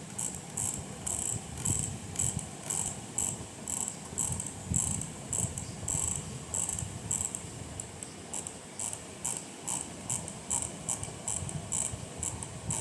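Sharp clicking repeated over and over at an uneven pace, about three to four clicks a second, like a small click mechanism being worked again and again.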